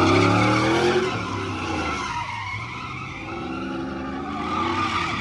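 Truck engine revving hard while its tyres spin in a burnout, with tyre screech throughout. The revs climb at the start, drop off around the middle and climb again near the end.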